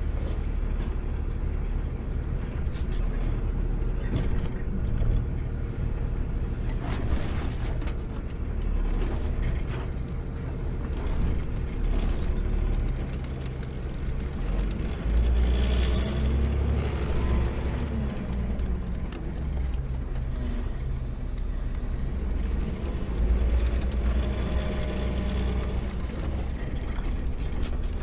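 An automated sideload garbage truck's engine running, heard from the driver's cab as a steady low drone. It swells with revs about halfway through and again near the end.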